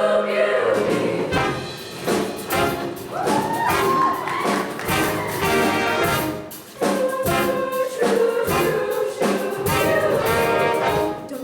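Show choir's live band playing an instrumental passage with brass to the fore and a steady beat, with some sung voices; the music dips briefly about two-thirds of the way through.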